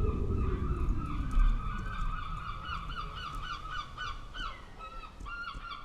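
A flock of geese honking, many short calls overlapping and repeating. A low rumble underneath fades away over the first two seconds.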